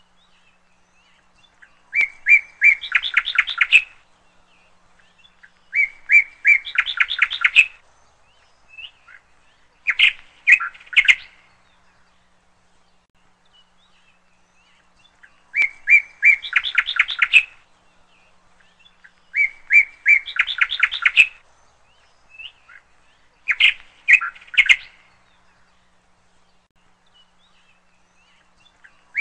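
A songbird chirping in short phrases of one to two seconds, each a few quick repeated notes. Three phrases come a few seconds apart, then after a pause the same three come again.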